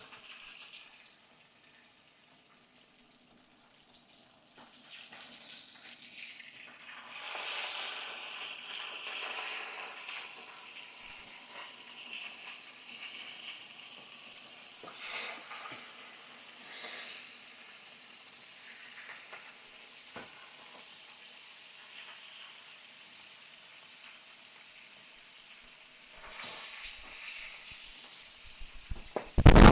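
Fish frying in hot oil, sizzling steadily and swelling up in surges, loudest a few seconds in. A sharp knock comes right at the end.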